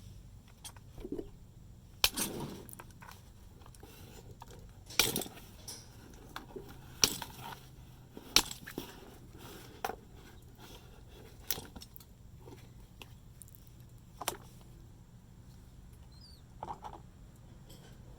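A flathead screwdriver prying at a fuel pump's strainer: irregular sharp clicks and knocks of metal on plastic, with small scrapes between them.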